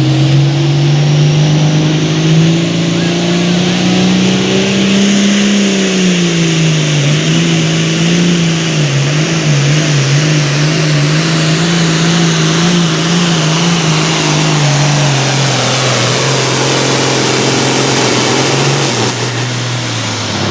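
Pulling tractor's engine run hard under full load while dragging the weight-transfer sled. The engine note climbs for the first few seconds, dips and wavers up and down through the middle, then sags lower near the end as the pull slows.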